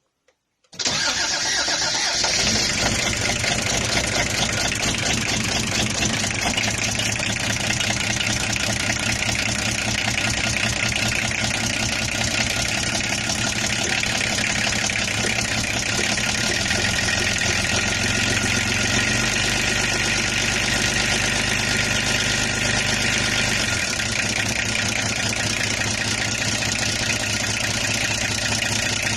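VW LT35's 2.4-litre six-cylinder diesel (ACT engine) starting about a second in, catching almost at once and settling into a steady diesel idle. This is a cold start after eight months of standing.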